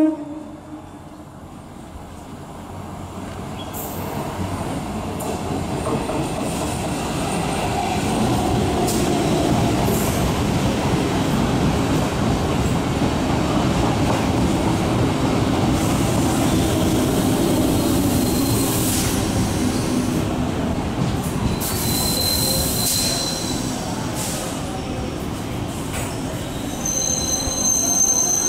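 Electric multiple unit local train running past below, growing louder over the first several seconds and then a steady rattle of wheels on rails. Thin high metallic squeals come in about two-thirds of the way through and again near the end.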